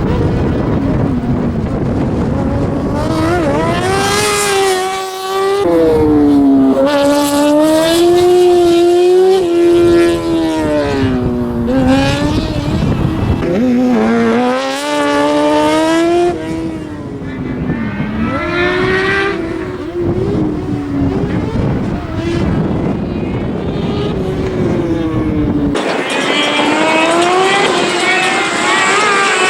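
Race car engine revving hard, its pitch climbing and dropping again and again as the car accelerates, lifts off and shifts through a slalom course. Near the end the low rumble cuts out abruptly while the engine note carries on.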